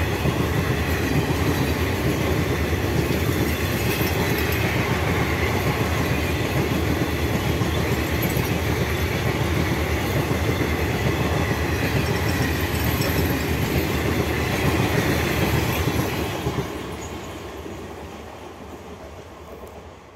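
Coaches of an Indian Railways passenger express train passing close at speed, their wheels running loudly and steadily over the rails. About three-quarters of the way through, the last coach goes by and the sound fades away as the train recedes.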